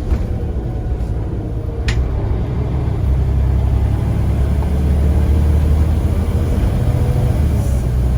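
Scania CN94UA bus's diesel engine running, a steady low rumble that grows louder about three seconds in as the engine works harder. A single short, sharp high-pitched click or squeak comes about two seconds in.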